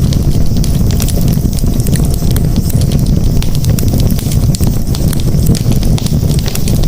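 Campfire burning with a steady low rumble of flames and frequent sharp crackles and pops from the burning wood.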